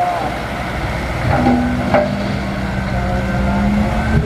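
Heavy earthmoving machine's diesel engine running hard, with a steady whine coming in about a second and a half in and two sharp cracks near the start.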